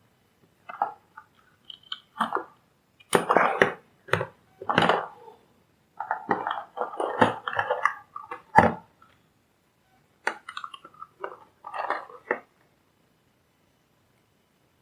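Irregular crunching, scraping and clicking handling noises in short bursts with pauses, stopping near the end.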